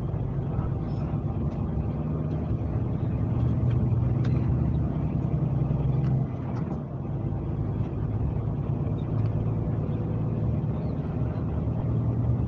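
Scania K370C coach's diesel engine running steadily under way, with a brief dip in level about halfway through.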